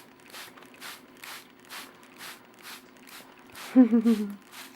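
Trigger spray bottle misting water in short squirts, about two a second, while a cockatiel is sprayed for a shower. Near the end a person hums briefly.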